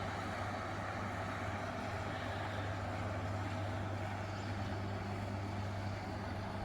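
Pontoon boat's outboard motor running at speed, a steady drone.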